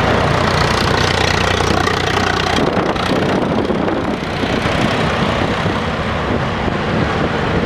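Diesel engine of a SANY SAG160-5 motor grader running steadily under work, a low hum with heavy mechanical noise over it.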